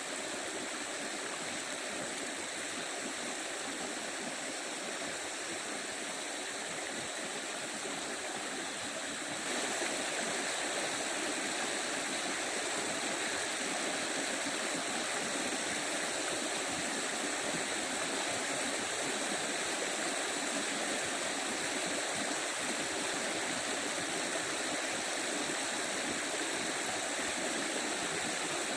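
Stream water running steadily, with a small jump in level about nine seconds in.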